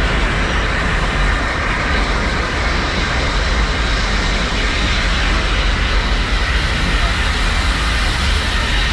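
Steady running noise of a narrow-gauge train in motion, heard from a microphone held out of a carriage window. A deep rumble from the coaches on the track runs under a broad rush of wind against the microphone.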